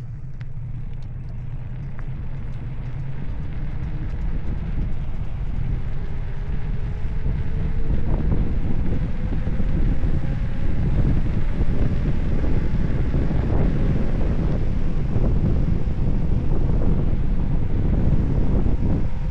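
Wind rushing over the microphone with tyre and road rumble from a bicycle on the move, growing louder over the first several seconds as it gathers speed. A faint hum rises slowly in pitch along with it.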